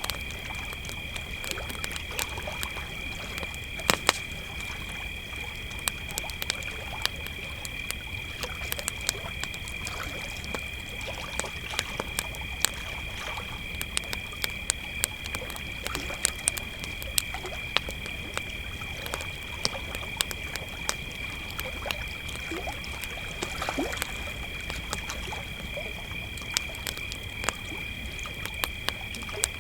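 Campfire crackling with frequent sharp pops, one of the loudest about four seconds in, over a steady high-pitched chorus of crickets and a low rumble.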